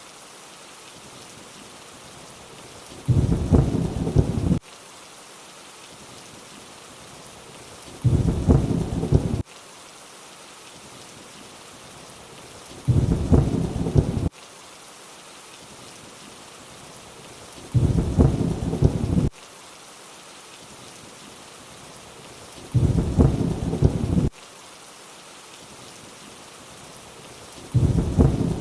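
Steady rainfall hiss with a short, deep thunder rumble repeating at even intervals about every five seconds, six times, each lasting about a second and a half and cutting off abruptly.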